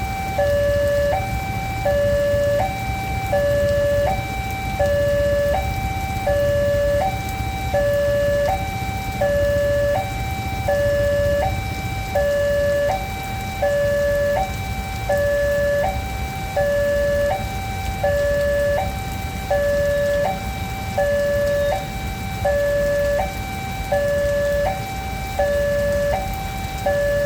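Electronic warning alarm of a railway level crossing, sounding a steady two-tone alternation, high then low, each tone held for just over half a second. This means the barriers are down and a train is approaching. A continuous low rumble runs underneath.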